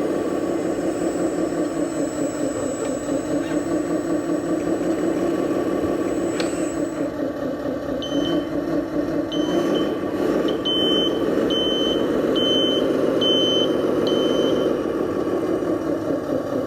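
RC Scania dump truck's engine sound running steadily. From about halfway in, a reversing beeper sounds about once a second for several seconds.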